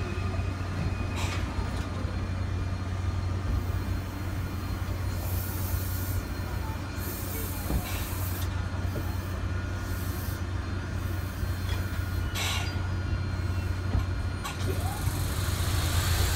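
Tobu 100 series Spacia electric limited-express train rolling slowly past and easing almost to a stop: a steady low running hum of wheels and motors, with a few short, sharp sounds from the running gear.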